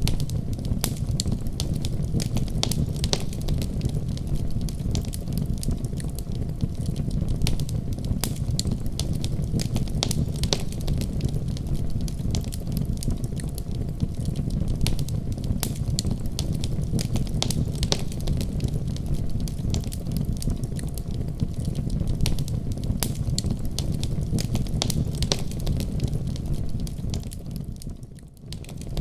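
Wood fire burning in a fireplace: a steady low rumble of the flames with frequent sharp, irregular crackles and pops. The sound dips briefly about a second before the end.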